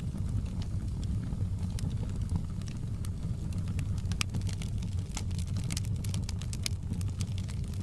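Fireplace fire burning with a steady low rumble and frequent sharp crackles and pops scattered through it.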